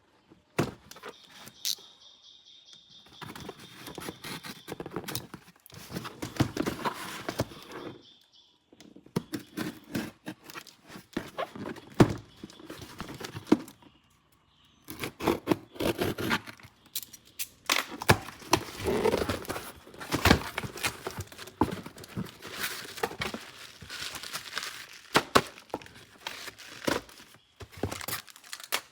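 Toy packaging being unboxed by hand: plastic and cardboard crinkling and tearing, mixed with clicks and knocks of hard plastic toy parts.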